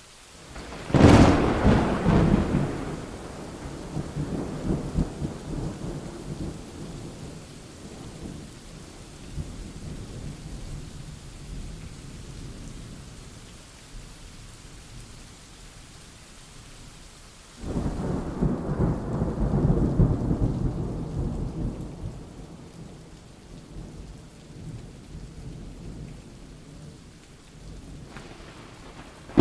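Thunderstorm: steady rain hiss with thunder. A sharp thunderclap about a second in rolls into a long fading rumble, a second sudden rumble breaks out past the middle and dies away over several seconds, and another clap starts at the very end.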